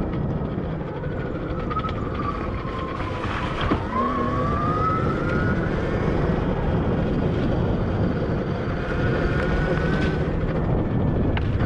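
Admitjet Armor electric dirt bike's motor whining under heavy wind rush on the helmet camera's microphone. The whine's pitch falls and then rises again about four seconds in as the throttle eases off and comes back on, with a single knock from the trail at the same moment.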